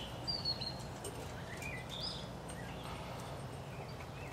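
Birds giving scattered short, high chirps, several sliding down in pitch, over a steady low background noise.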